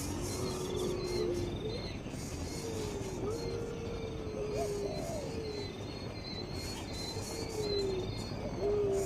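Bird calls: a series of low whistled notes, each held about a second and sliding a little in pitch, coming every second or two, with faint high chirps behind them.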